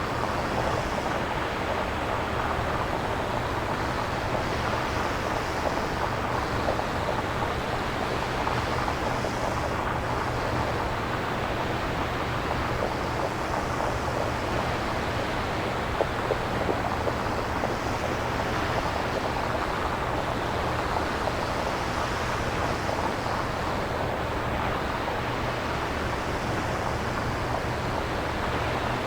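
Synthesizer-generated nature noise: a steady rushing hiss with slow, uneven swells, imitating surf or wind.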